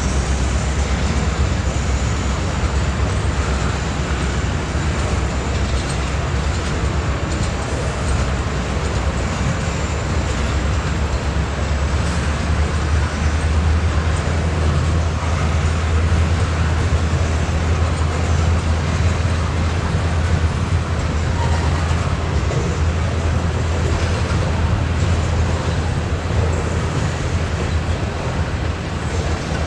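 Freight train rolling past: a steady, loud low rumble with rail noise over it.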